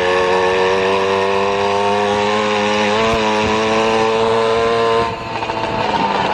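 An engine running steadily at high speed, its pitch creeping up a little, then cutting off abruptly about five seconds in.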